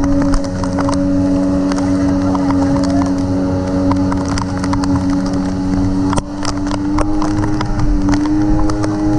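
A boat engine running steadily under way, its pitch rising slightly in the last few seconds, with a dense crackle of sharp ticks over it and one brief dip with a sharp crack about six seconds in.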